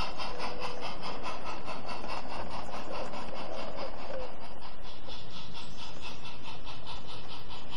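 A garden-railway model train running along its track, giving a steady mechanical rush with fast, even ticking.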